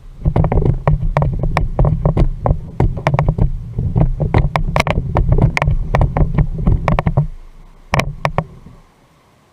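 Rapid knocks and rattles over a low rumble from a fishing kayak and its gear being bumped and handled. It stops about seven seconds in, and two more knocks follow before it goes quiet.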